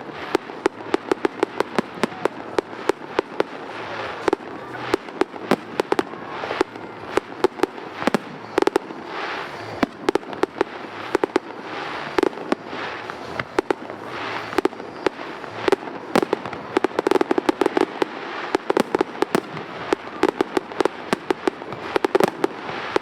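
Fireworks display: a steady barrage of shell bursts, several sharp bangs a second, with crackling between them.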